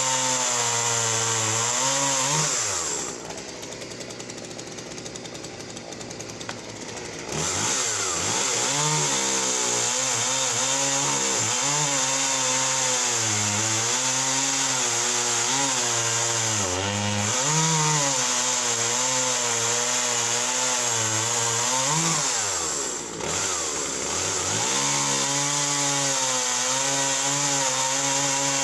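Husqvarna 41 chainsaw running at full throttle and cutting wood, its engine pitch wavering as the chain bogs and recovers in the cut. About three seconds in it drops to idle for about four seconds, then revs back up. It eases off briefly again near 23 s.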